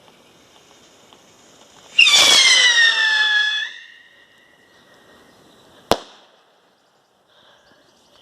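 Small whistling stick rocket launching: a loud whistle that falls in pitch for about two seconds and fades, then a single sharp bang about two seconds later as it bursts in the air.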